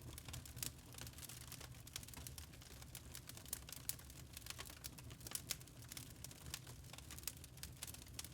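Wood fire burning in a fireplace: irregular sharp crackles and pops of burning logs over a soft low rumble of the flames.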